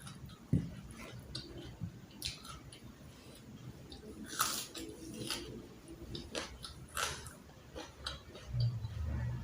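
Close-up eating sounds: a person chewing and biting crisp fried carp and raw vegetables, with irregular crunches and mouth clicks, and a short low hum near the end.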